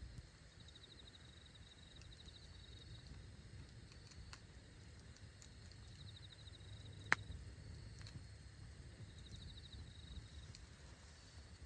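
Wood campfire crackling faintly, with a single loud pop about seven seconds in, while insects chirp in short, repeated high trills.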